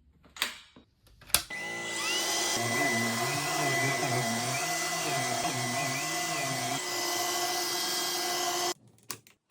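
Vacuum cleaner switched on with a click, its motor spinning up to a steady run with a high whine. It is switched off abruptly near the end, followed by a few clicks.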